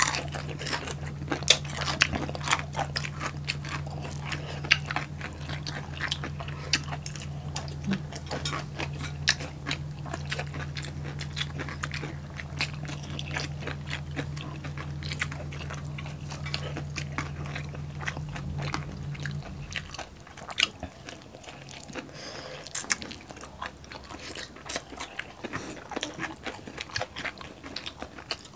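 Close-miked eating of crispy pork belly: many sharp crunches and bites of the crackling skin, with wet chewing in between. A steady low hum runs underneath and stops about two-thirds of the way through.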